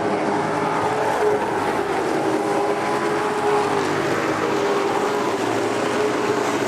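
Racing truck engines running at speed on the track, a steady drone that wavers gently in pitch.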